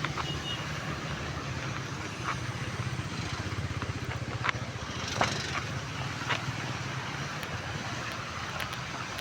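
Steady rain hiss with a motor vehicle engine running underneath, and a few sharp taps scattered through it.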